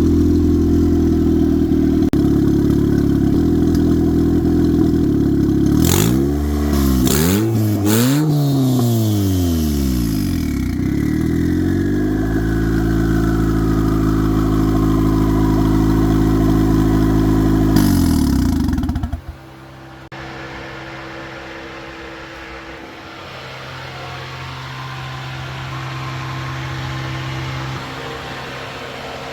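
Turbocharged Honda Civic engine idling steadily, blipped twice about six and eight seconds in, with a thin whine slowly falling in pitch after the revs. The engine is switched off about nineteen seconds in, and a quieter steady hum carries on after it.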